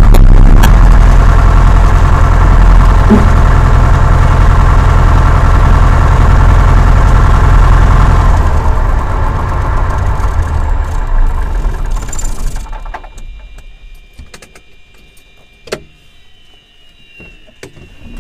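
Cessna 172's piston engine running steadily, then winding down and stopping about 13 seconds in. A few faint clicks follow.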